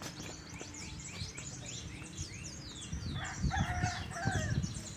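Caged songbirds, a canary among them, sing quick, falling chirps throughout. A rooster crows from about three seconds in, for about a second and a half.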